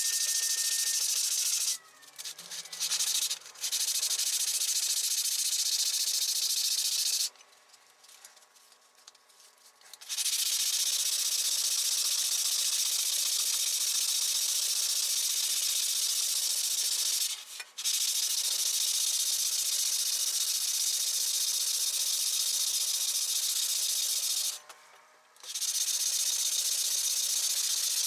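Steady, gritty abrasive rubbing, like sanding away rust and old paint on metal parts. It runs in stretches that cut off abruptly a couple of seconds in, for about three seconds around seven seconds in, and briefly twice later.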